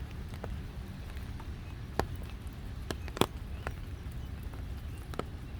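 Scattered sharp taps of raindrops, about six at irregular intervals, over a steady low rumble.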